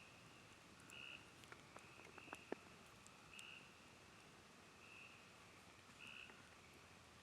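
Faint chorus of frogs, each call a short high note repeated about once a second. A campfire crackles and pops now and then, with a cluster of pops in the middle and one sharper pop about two and a half seconds in.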